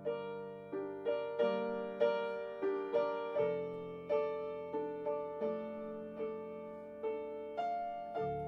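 Soft background piano music: slow single notes and chords struck about every half second, each ringing and fading into the next.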